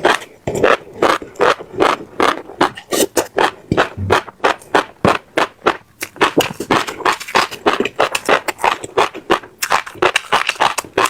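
Close-miked chewing of crunchy food, with crisp crunches coming several times a second.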